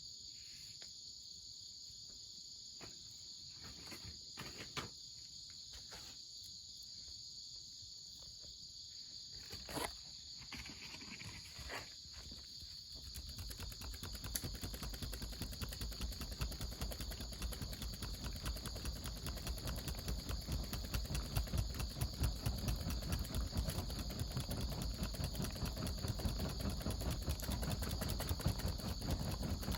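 Crickets and other insects chirping steadily in the background, with a few scattered pops early on. From about halfway a wood fire crackles more and more densely and gets louder toward the end.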